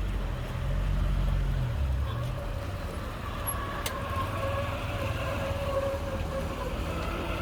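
Heavy truck engine running with a deep rumble that eases after about two seconds, leaving a steady engine whine. There is a single sharp click about four seconds in.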